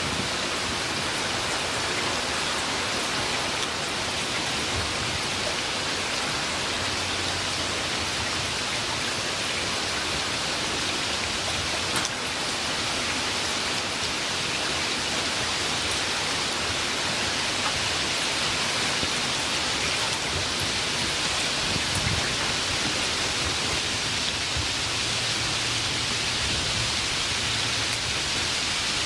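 Steady rain falling, an even dense hiss with a few sharper drop ticks here and there; no thunder.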